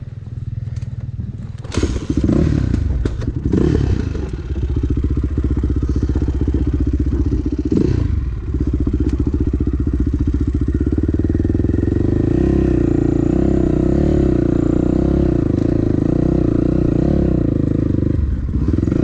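Dirt bike engine running, idling low at first, then revved in several quick blips from about two seconds in. From about nine seconds it holds at steady high revs, growing louder from about twelve seconds.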